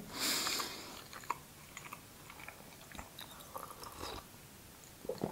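Quiet chewing of a bite of flaky baked pie with a chicken filling, with small moist mouth clicks. About four seconds in, a sip of tea from a mug.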